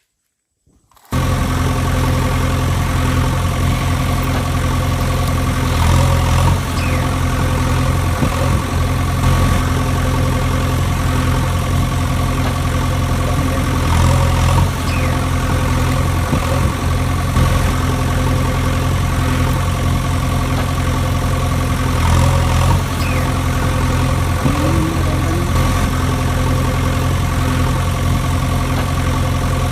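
A steady engine drone, idling evenly and swelling in a repeating loop about every eight seconds, starting about a second in.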